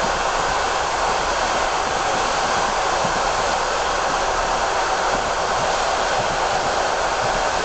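Steady rushing noise of a passenger train running at speed on the Trans-Siberian line, heard from inside the carriage.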